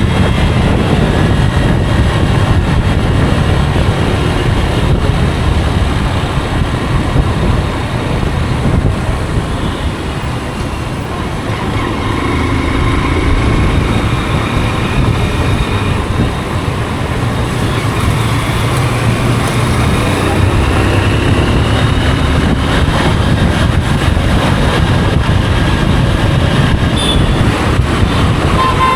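Motorcycle on the move: a steady rush of wind and road noise with the engine underneath, its pitch rising and falling now and then.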